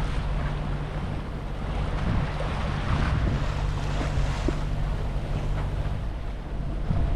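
Wind buffeting the microphone over the rush of water along a sailing catamaran's hulls, under sail.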